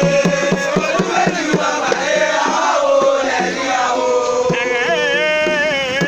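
Voices singing a chant over repeated percussion beats, with a long wavering held note in the second half.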